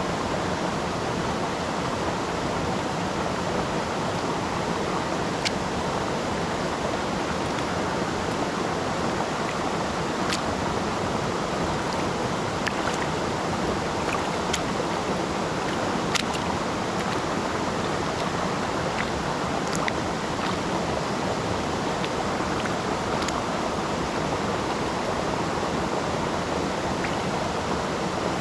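River water rushing steadily, with a few faint sharp ticks of splashing or droplets now and then.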